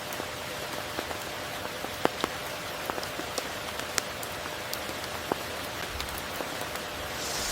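Steady tropical rain falling, an even hiss with many individual drops ticking close by, one sharper drop standing out about two seconds in.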